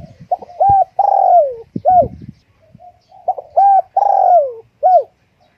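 Spotted dove cooing: two loud phrases, each a few short coos and a longer coo that falls in pitch.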